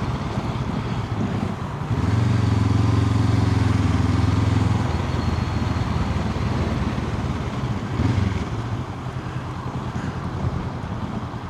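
Honda CL500 parallel-twin engine running as the bike is ridden, with wind and road noise. The engine note is steady and louder for a few seconds, starting about two seconds in, then drops back.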